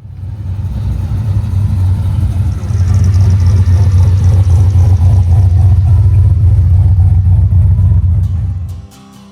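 Car engine and exhaust running loud with a deep, steady rumble, building over the first few seconds and cutting off suddenly near the end.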